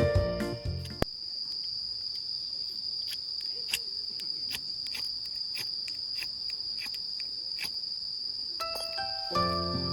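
Insects, crickets or the like, chirring in one steady high tone, with faint ticks every half second or so. Background music cuts off about a second in and comes back near the end.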